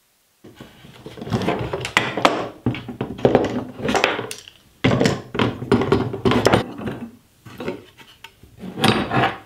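Metal bar clamps being loosened, pulled off a glued-up end-grain cutting board and set down on a workbench: irregular clanks and clatter of steel clamps and wooden blocks, starting about half a second in.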